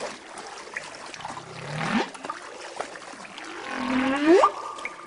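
Short-finned pilot whale calls: two rising, whistle-like calls, the second, near the end, climbing higher and louder than the first.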